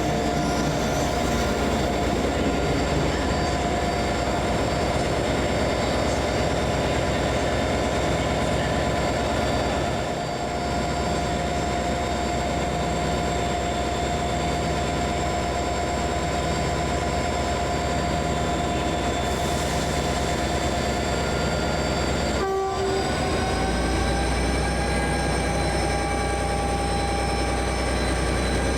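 A train running steadily with a constant machine hum and several steady whining tones. About two-thirds of the way through the sound breaks briefly, then carries on with its tones slightly higher and a heavier low hum.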